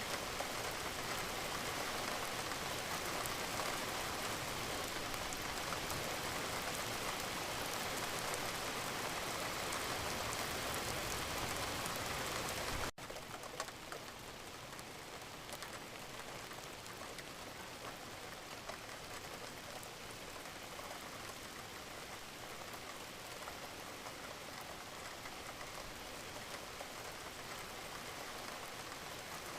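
Steady crackling and hiss of a wood fire in a fireplace, a dense patter of small pops. About halfway through it cuts suddenly to a quieter, duller version of the same sound and carries on.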